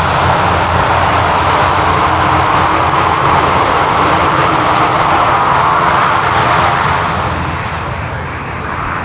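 Aircraft engines running loudly as a plane passes close by, the noise easing off from about seven seconds in.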